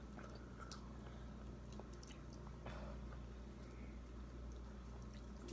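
Quiet chewing and small clicks of people eating, over a steady low hum.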